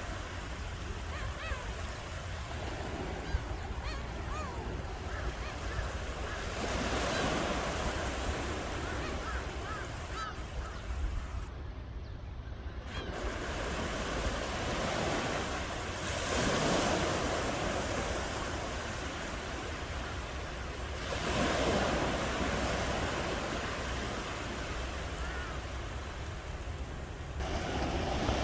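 Ocean surf: waves breaking and washing in, swelling four times, about a quarter of the way in, just past halfway, about three quarters through and near the end, over a steady low rumble.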